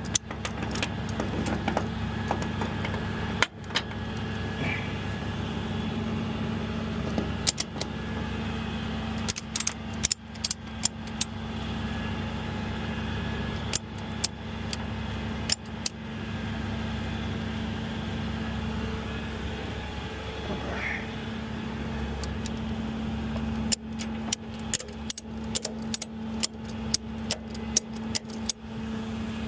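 A vehicle engine running steadily, with short sharp clicks and rattles coming in bursts, the longest a quick irregular run near the end.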